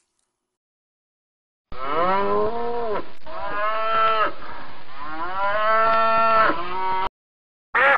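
Long mooing calls, like cattle, starting about two seconds in and running for about five seconds, each sliding up and then down in pitch.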